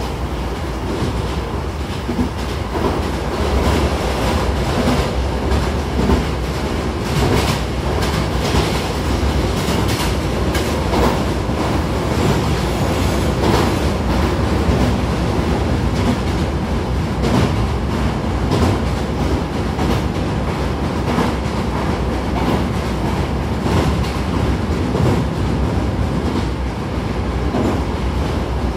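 Running noise inside a Hankyu 1000-series electric train car under way: a steady rumble of wheels on rail with frequent irregular clickety-clack from the rail joints.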